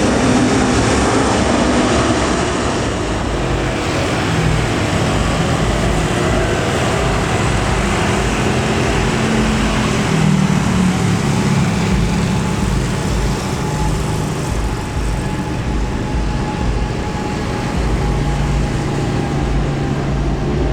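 Jet airliner's engines heard near the runway: a loud, steady rushing noise with low hums that drift slightly in pitch.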